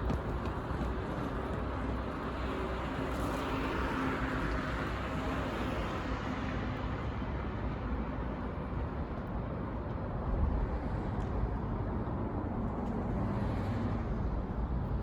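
Steady outdoor road-traffic rumble, with one vehicle swelling past about four seconds in and another, fainter, near the end.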